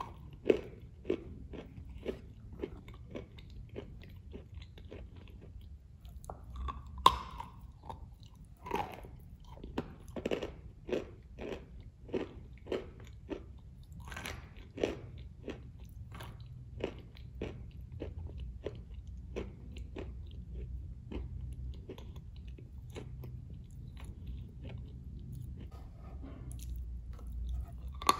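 Close-miked chewing and biting of a soft 'Matryoshka' wet cookie with whipped cream. It is a steady run of short, irregular mouth clicks and soft crunches, one louder about seven seconds in.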